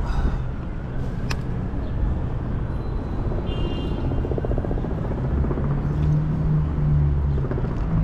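Wind buffeting the camera's microphone during a bike ride, a steady low rumble. There is a sharp click about a second in and a brief high tone near the middle.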